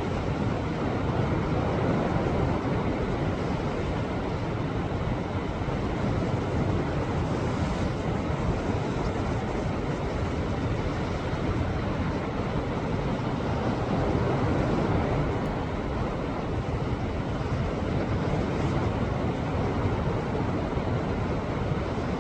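Sea waves surging against a rocky shore: a continuous wash of surf that swells and eases, building to its loudest a couple of seconds in and again around fourteen seconds in.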